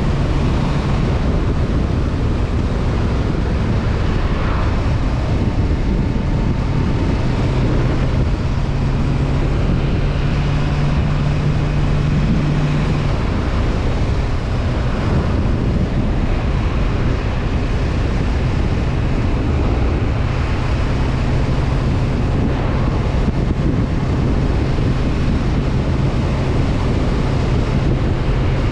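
Honda CB500F parallel-twin engine running at road speed, heard from the rider's position under heavy wind rush on the helmet or body-mounted action-camera microphone. The engine's low note shifts in pitch and strength a couple of times, around a third of the way in and again past the middle, as throttle or gear changes.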